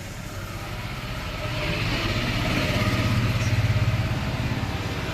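Maruti Suzuki petrol engine running, pulsing evenly, growing louder from about a second and a half in and easing off a little near the end.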